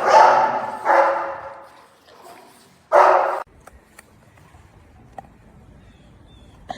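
A dog barking: three loud, drawn-out barks in the first three and a half seconds, the last one cut off abruptly.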